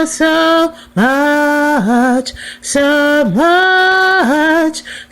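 A woman singing unaccompanied, drawing out a few long held notes that each dip down in pitch before the next one.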